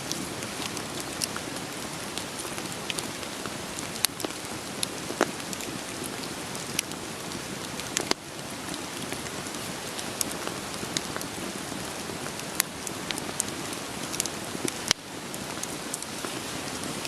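Steady rain together with a wood fire crackling. Irregular sharp pops of burning logs stand out over the even hiss of the rain, a few of them louder than the rest.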